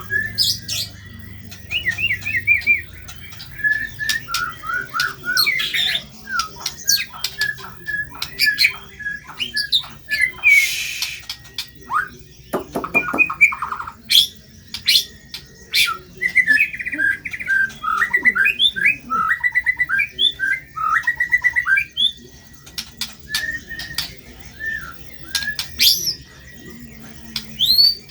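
White-rumped shama singing continuously: a fast, varied run of short whistled notes, quick trills and rattles, with a harsh scratchy call about ten seconds in.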